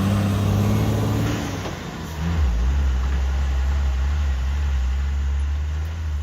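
Heavy diesel engine running. It eases off over the first couple of seconds, then settles into a steady low drone.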